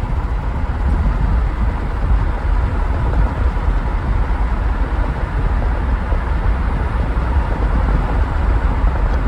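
Steady low rumble of a moving vehicle, with no sharp events.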